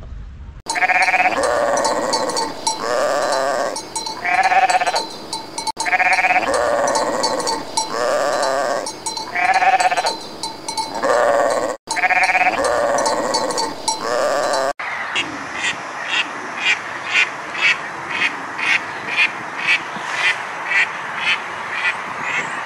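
Sheep bleating, one call after another, for about the first fourteen seconds; then a duck quacking in a steady series, about two quacks a second.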